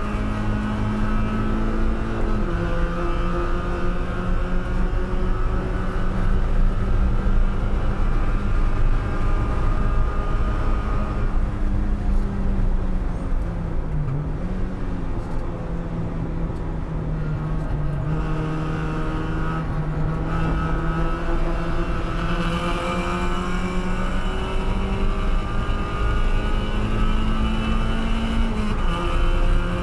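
Spec Miata race car, a 1999 Mazda Miata NB with a 1.8-litre four-cylinder engine, running hard at high revs, heard from inside the cabin over wind and tyre noise. The pitch steps down a little about two seconds in and again near the end, dips briefly about halfway through, then climbs slowly.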